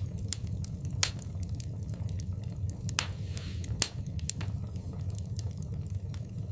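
Wood fire burning in a fireplace, with sharp crackles and pops over a steady low rumble of the flames; the loudest pops come about a second in and twice near the middle.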